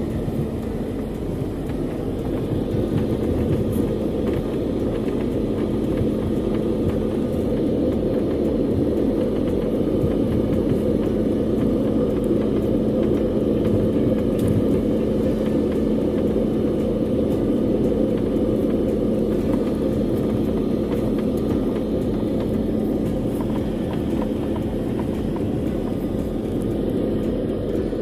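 Steady vehicle rumble heard from inside, with a constant low hum running under it.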